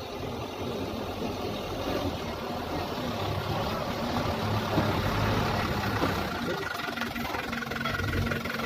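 Diesel engine of a Hino heavy-duty dump truck running steadily, slowly growing a little louder.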